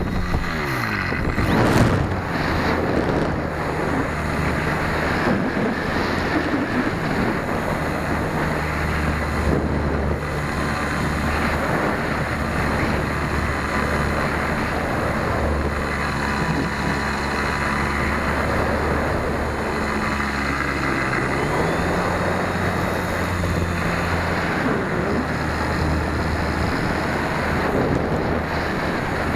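Onboard sound of a radio-controlled Super Cub in flight: air rushing over the camera microphone, with the steady hum of the brushless motor and propeller underneath. The hum drops in pitch near the start and rises again about two-thirds of the way through as the throttle changes.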